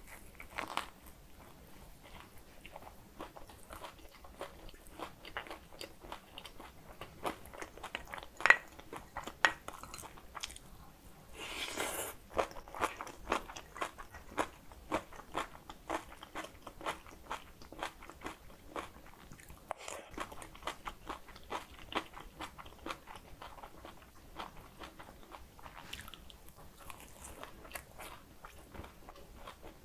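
Close-miked chewing and biting of dumplings: a steady run of wet, sticky mouth clicks and smacks, with a sharper crunch about eight and a half seconds in. A short rustling noise comes about twelve seconds in.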